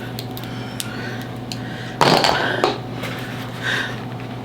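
Small light clicks and taps of makeup items being handled, with one short hissing breath about two seconds in, over a steady low hum.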